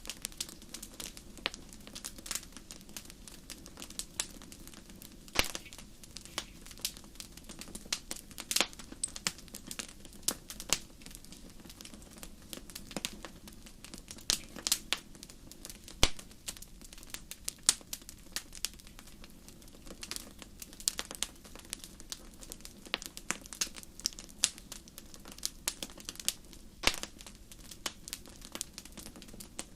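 Wood fire crackling in a fireplace: irregular sharp pops and snaps, a few of them louder, over a steady low background noise.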